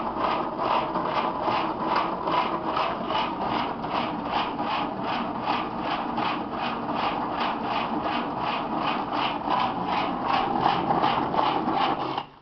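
Moskvich 2141's starter cranking the engine over at about three turns a second without it catching, turning heavily after 15 years of standing idle; the cranking stops abruptly near the end.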